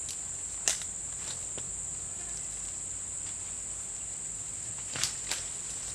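Steady high-pitched chorus of forest insects, crickets or cicadas, at dusk. A few sharp knocks cut through it, the loudest about a second in and two more near the end.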